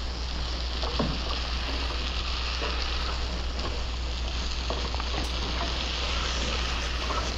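Marinated mushrooms sizzling steadily in a skillet over high heat while being stirred with a spatula, with a few faint scrapes and clicks of the spatula against the pan.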